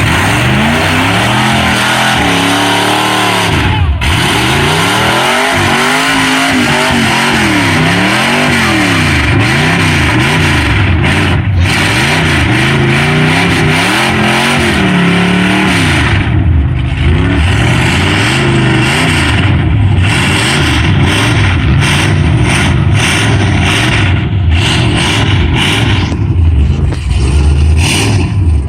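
Truck engine revving hard, its pitch climbing and falling again and again, over a constant loud rushing noise.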